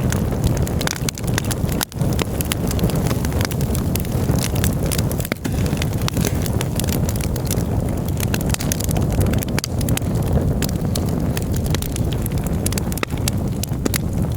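Campfire burning, the wood crackling with many rapid sharp pops over a steady low rumble.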